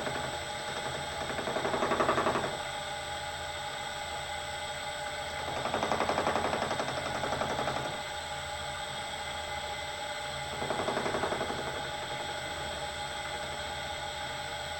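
Bridgeport milling machine running with a steady hum, its cutter biting into a metal part in three louder stretches: about two seconds in, from about six to eight seconds, and around eleven seconds.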